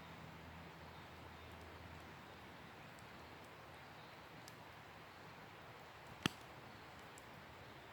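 Wood campfire burning quietly with a few faint crackles, and one sharp pop about six seconds in.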